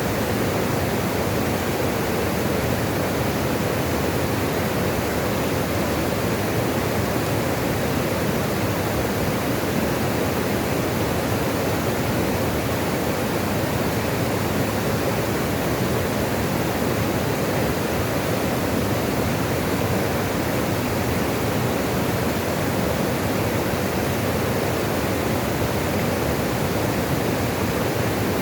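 Steady rush of flowing water, an even, unbroken noise with most of its weight in the low and middle range, like a stream or small waterfall.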